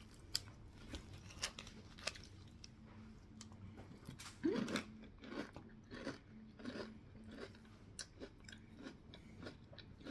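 People chewing crunchy loop cereal with milk: irregular soft crunches, a few a second, with a short vocal hum about halfway through.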